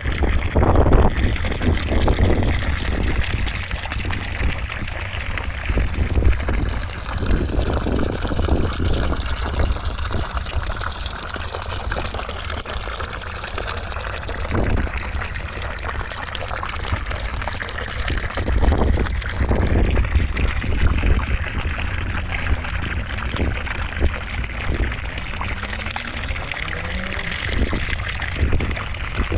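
Steady rushing white noise with a heavy low rumble, holding an even level throughout.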